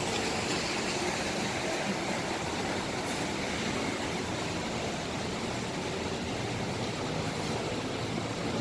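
Steady running noise of a bus engine and traffic at a bus terminal entrance, an even rumble and hiss with no distinct events.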